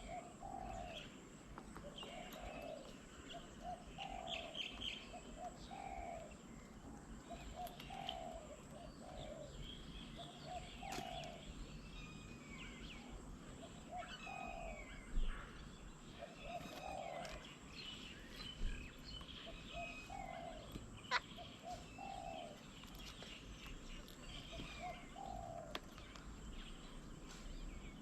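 A dove cooing over and over, its low notes coming singly and in pairs every second or two, while smaller birds chirp higher up. Twice a sharp click stands out louder than the birds.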